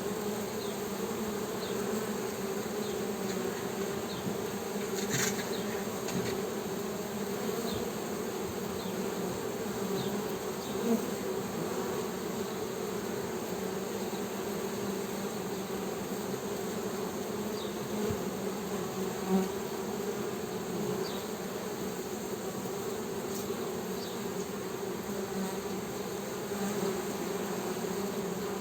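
Honey bee hum: a steady drone with a few faint ticks.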